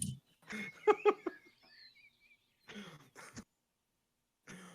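A few short, quiet bursts of a man's voice, like murmured or half-laughed reactions, with near-silent gaps between them.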